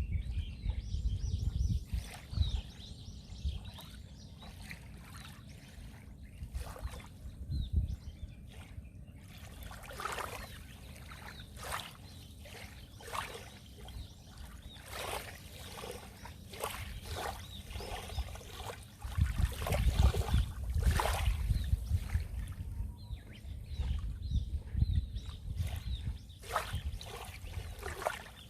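Sea waves washing in and splashing, with irregular slaps and trickles of water; a bigger wave rushes in with a low surge about two-thirds of the way through.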